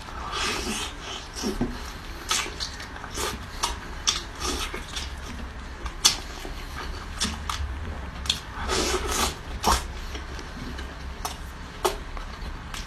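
Close-miked eating sounds for ASMR: irregular bursts of chewing and crunching with sharp clicks, over a steady low hum.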